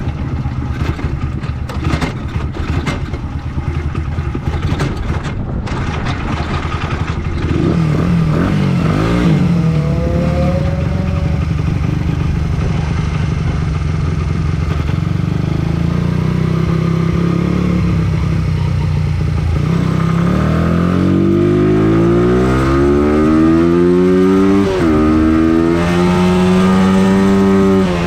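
A vehicle's engine under test on a race circuit. It runs unevenly with rattling at first, settles into steady running, then climbs in pitch under acceleration several times in the last third, with brief drops at the gear changes.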